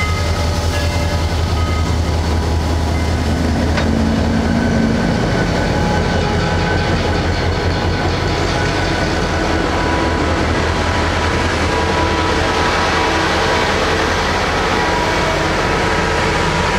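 A train rolling by with a steady rumble of wheels on rail, a little clickety-clack, and faint steady squealing tones over it.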